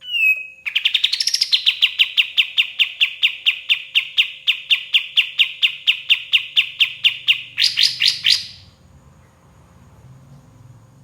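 Kapas tembak songbird singing a fast, even trill of about five sharp down-slurred notes a second for about seven seconds, ending in a brief louder, higher flourish, after which it stops.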